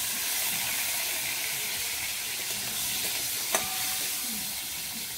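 Potato pieces sizzling as they fry in hot mustard oil in a metal kadai, a steady hiss that eases slightly. A metal spatula clinks once against the pan about three and a half seconds in.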